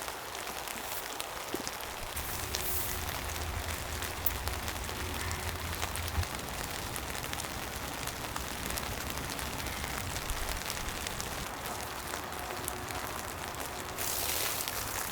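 Steady rain falling, with many small drops ticking throughout and a brief swell about fourteen seconds in.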